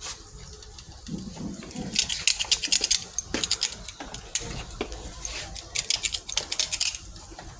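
Rapid clicking and clattering of small hard objects being handled, in two spells: one about two seconds in and a longer one about five seconds in.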